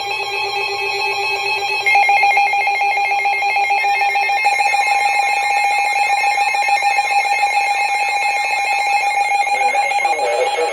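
Electronic emergency alert tones of the kind that come before a broadcast weather warning: a steady alarm of several tones that gets louder about two seconds in, with a warbling tone joining about halfway through.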